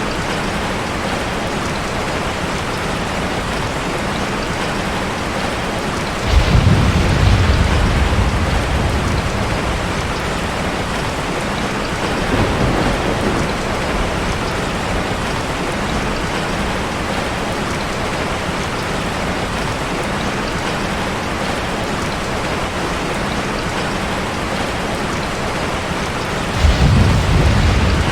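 Steady rush of falling water, waterfall ambience. A deep rumble rises suddenly about six seconds in and lasts about two seconds, a fainter one comes around twelve seconds, and another begins near the end.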